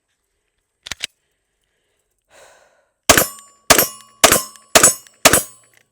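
Ruger RXM 9mm pistol fired five times in quick succession, a little under two shots a second. About a second in come two sharp mechanical clicks.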